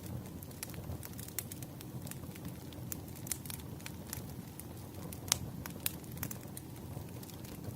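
Wood fire crackling: a steady low rumble of burning logs with irregular sharp pops and snaps, the loudest about five seconds in.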